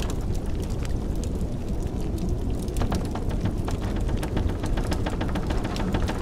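Wood fire crackling with many small sharp pops over the steady low rumble of blizzard wind.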